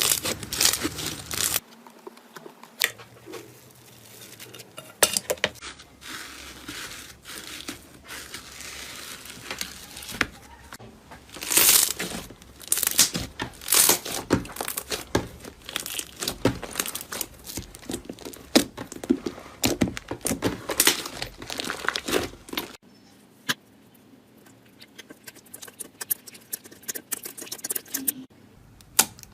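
Slime being squeezed and worked by hand, giving bursts of wet crackling and popping clicks, densest in the middle and quieter for stretches near the start and end.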